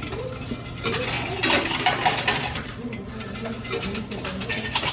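Coins clattering in a coin pusher machine: a dense run of metallic clinks, loudest around the middle, over a steady low machine hum.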